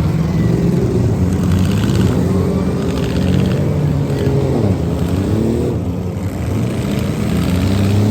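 Several demolition derby cars' engines running and revving together, their pitches rising and falling as they accelerate and back off, with one dipping and climbing again about five seconds in.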